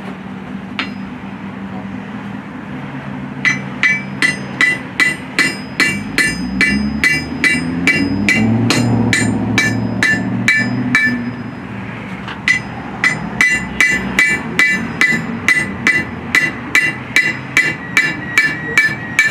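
A blacksmith's hammer striking hot steel on an anvil, about three blows a second, with the anvil ringing after each blow. The hammering starts a few seconds in, stops briefly about halfway, then resumes. A steady low hum runs underneath.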